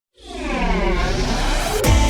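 Radio station jingle opening: a swooshing electronic sweep of tones falling in pitch, with a low drum beat coming in near the end.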